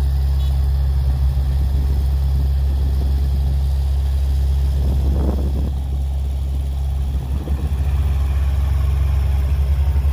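Heavy construction vehicle's diesel engine running with a deep, steady drone, swelling briefly about halfway through.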